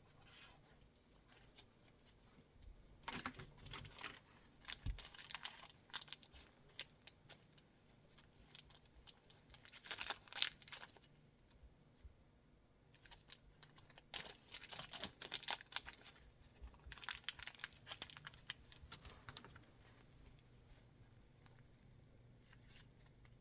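Packaging being handled by hand during an unboxing, crinkling and tearing in several spells of crackling with short quiet gaps between them.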